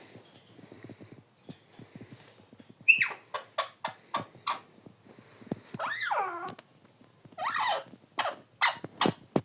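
A parrot calling: a sharp squawk about three seconds in, then a quick run of short chirps. Near the middle comes a longer call that falls steeply in pitch, and more short squawks follow toward the end.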